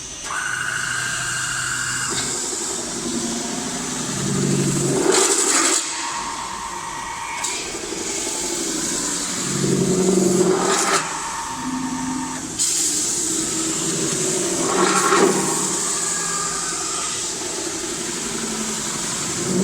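Double-roller CNC metal spinning machine running, its motors whining with shifting steady tones. About every five seconds comes a louder surge that rises in pitch.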